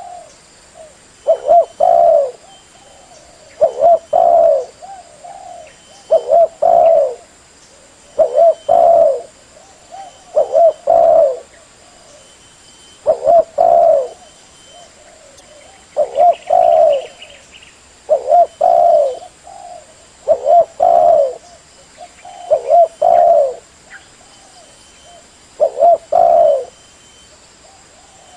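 Spotted dove (tekukur) cooing: a mellow two-part coo, a short note run into a longer one, repeated about every two seconds.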